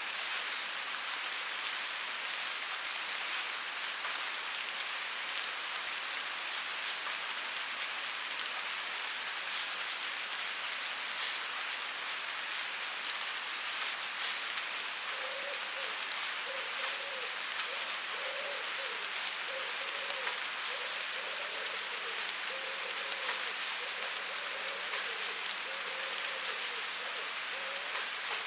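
Steady rainfall on a surface: an even hiss of rain with scattered ticks of individual drops.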